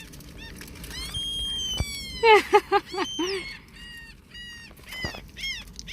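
Gulls calling: a long high call about a second in, a quick loud run of calls around two seconds in, then short calls repeated through the rest.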